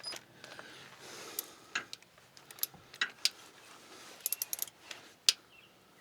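Light metallic clicks and clinks of a ratchet and socket on small bolts: scattered single ticks, with a quick run of four clicks about four seconds in.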